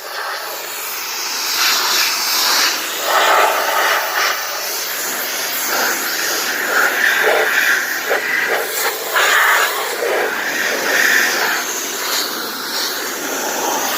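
Pressure-washer jet hissing as it strikes a car's bodywork. The sound shifts in tone every second or so as the spray moves across the panels.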